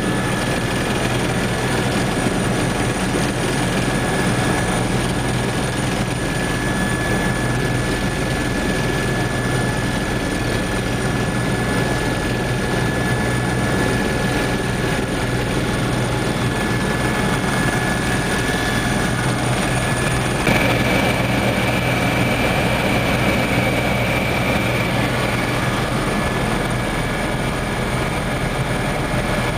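Helicopter in flight, heard from on board: a steady engine and rotor drone with a thin high whine that jumps higher in pitch about twenty seconds in.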